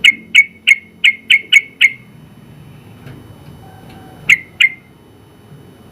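Sooty-headed bulbul (trucukan) calling: a quick run of seven short, loud notes in under two seconds, then two more notes a couple of seconds later.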